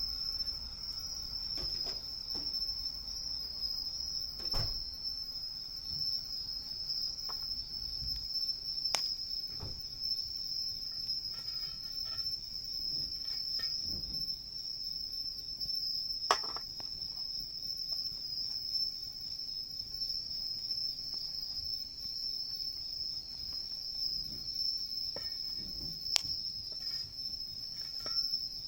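A steady, high-pitched chorus of insects calling without a break, over a wood campfire that gives off a few sharp pops and crackles, the loudest about 16 and 26 seconds in.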